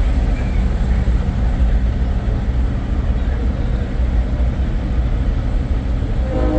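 Diesel semi-truck engine idling with a steady low rumble. Right at the end a multi-tone air horn starts blowing.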